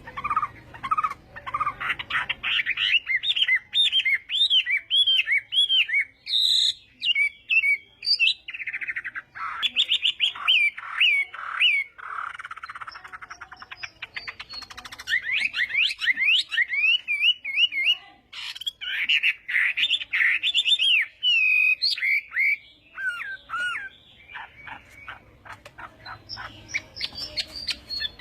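Chinese hwamei singing: a long run of loud, rapid, varied whistled phrases made of quick repeated notes that slide up and down, broken by short pauses.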